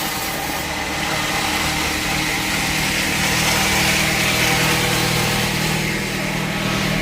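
Bandsaw sawmill machinery running with a steady, loud engine-like drone.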